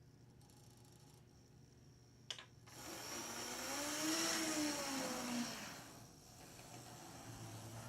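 Small electric motor and gear drive of an HO brass model interurban car whirring along the track at low throttle, with a single sharp click a little after two seconds in. The whirr then swells with a whine that rises and falls in pitch, and fades again.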